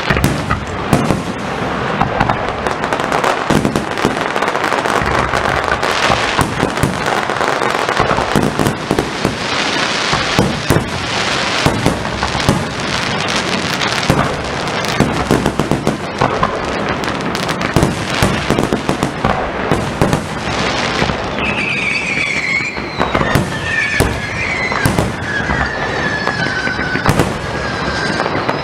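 Firework display: a dense, continuous barrage of rapid bangs and crackling. In the last quarter, several whistles fall in pitch over the bangs.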